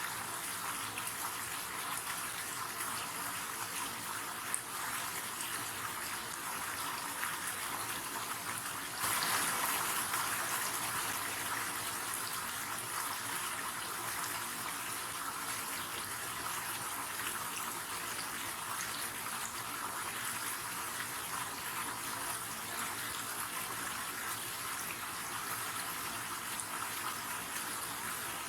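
River water running steadily with an even rushing hiss. It turns abruptly louder about nine seconds in, then settles back over a couple of seconds.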